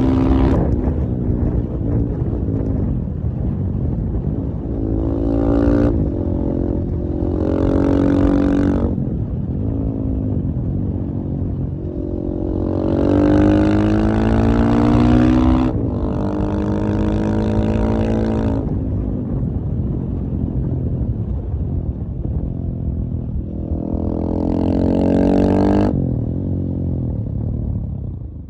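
KTM 450 EXC-F enduro motorcycle's single-cylinder four-stroke engine running, opened up in about five bursts of throttle, its pitch climbing with each and dropping back between them.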